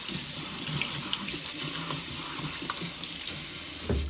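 Kitchen sink tap running steadily, water splashing into the sink as a dishwasher filter is rinsed under it; the tap is shut off near the end.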